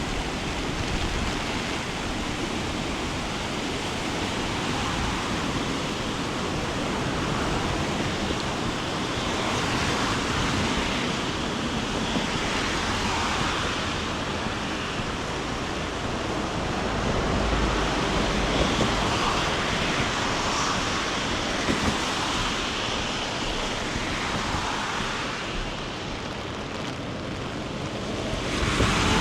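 Steady rushing noise of a flood-swollen river running fast.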